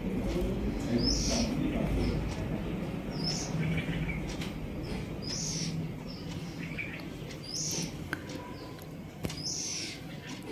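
A bird gives a short, high, hooked chirp about every two seconds, five times in all, over the soft wet squelching of a hand working a thick yogurt-and-spice marinade into raw chicken legs in a steel bowl.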